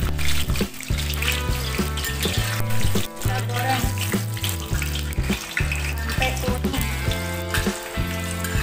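Background music with a bass line over cashew nuts sizzling in hot oil in a wok, with a metal spatula scraping and clicking against the wok as they are stirred.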